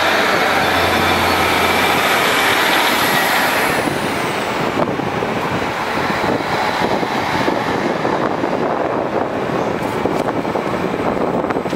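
Two diesel multiple-unit passenger trains moving through the station at once, one running right alongside the platform: a steady loud rumble of engines and wheels on rail. A thin high whine glides down in pitch about four seconds in.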